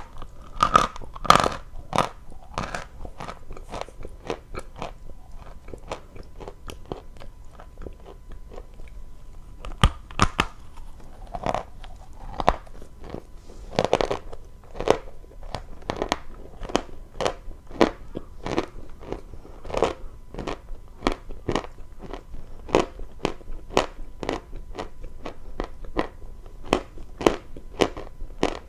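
Close-miked chewing of dry crunchy chalk: a steady run of sharp crunches, about two a second.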